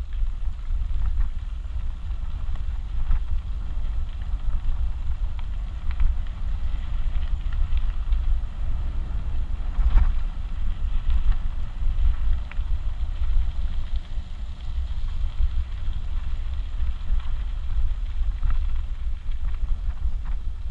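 Wind buffeting an action-camera microphone, a constant rumbling low noise that rises and falls, with a few faint ticks scattered through it.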